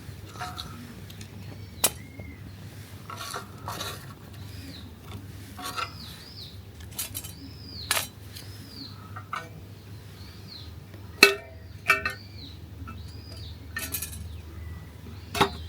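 Metal camp cookware clinking and knocking now and then, a handful of sharp clinks with the loudest pair near the end. Birds call throughout, short arched whistles repeating every second or so.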